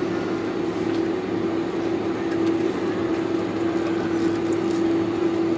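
Steady cabin noise inside a Boeing 747-400 taxiing after landing: a constant hiss of engines and air with one unchanging mid-pitched hum over it.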